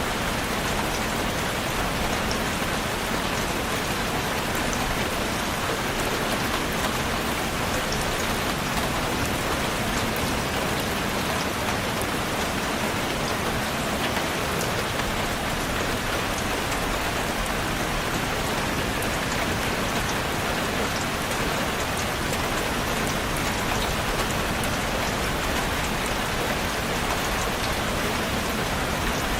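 Steady rain falling on a surface, a constant even hiss with many small drop ticks.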